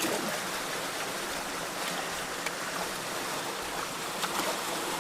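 Steady rush of flowing creek water, with a few faint knocks.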